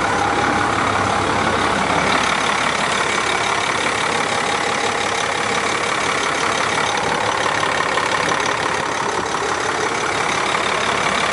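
International DT466 inline-six diesel engine, freshly rebuilt, idling steadily in a 2001 International 4900 truck.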